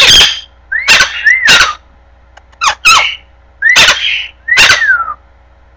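Sun conure giving a run of short, loud, harsh screeches, about seven in quick succession, several rising and then falling in pitch.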